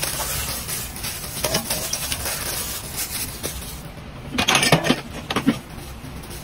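Chicken and stir-fried vegetables being mixed in a stainless steel pot: scattered clicks and scraping against the metal, with a louder run of clatter about four and a half seconds in.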